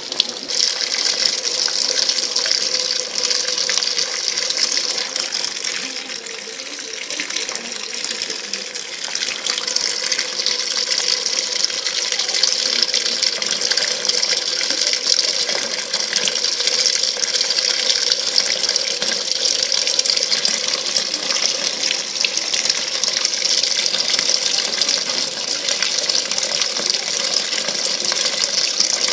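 Brastemp BWL07A 7 kg top-loading washing machine filling: water runs steadily into the drum, with a steady low tone underneath. It is briefly quieter about seven seconds in.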